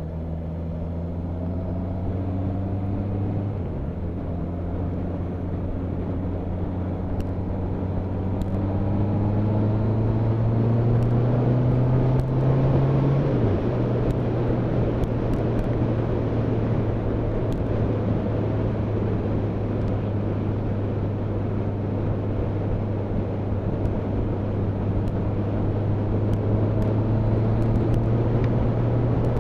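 Motorcycle engine accelerating on the road, its pitch rising and then dropping at a gear change twice, about 4 seconds in and about 13 seconds in, then running at a steady cruise, with wind and road noise.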